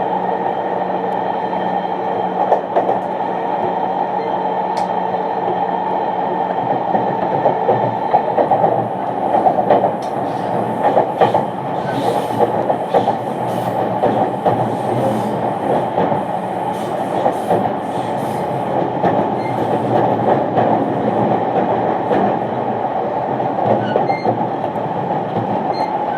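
E231-1000 series EMU running at speed, heard under a motor car with Hitachi IGBT-VVVF traction equipment: a steady rumble of wheels and motors with a faint hum that fades about eight seconds in, then scattered rail-joint clicks and squeal-like hiss over the running noise.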